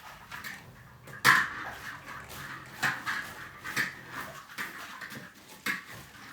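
Metal kitchen utensils clanking: a wok and spatula being knocked and handled while being washed. The sharpest knock is about a second in, with several lighter ones after.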